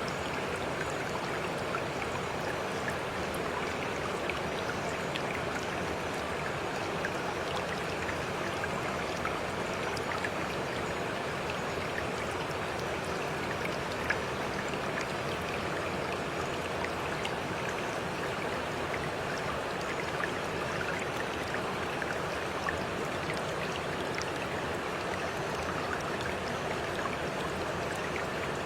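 Steady running water: an even, unbroken rush with small splashes ticking through it.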